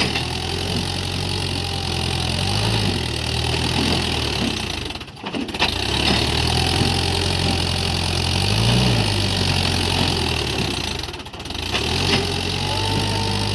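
Tractor diesel engine running steadily with a low chug, briefly rising in pitch a few times. Twice the sound drops out for a moment.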